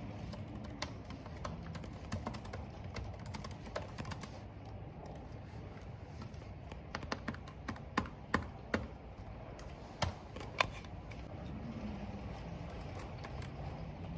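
Computer keyboard typing: irregular keystrokes, with a quicker, louder run of clicks about halfway through. Steady wind and rain noise sits underneath.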